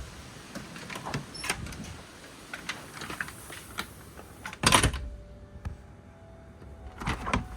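A door being handled while going indoors: scattered knocks and rattles, then a loud bump about five seconds in, after which the outdoor hiss of the storm cuts out and a faint steady hum is left. More knocks come near the end.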